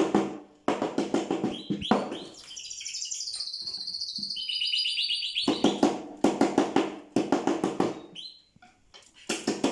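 A songbird singing: a fast trill of rapidly repeated high notes that steps down in pitch midway through, among other quick pulsed phrases.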